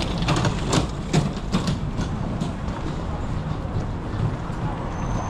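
Steady low rumble of passing city traffic, with several sharp clicks in the first two seconds.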